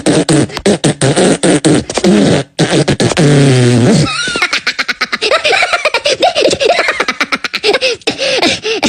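A person's voice making rhythmic wordless vocal noises and mouth clicks, with a long falling vocal glide about three seconds in.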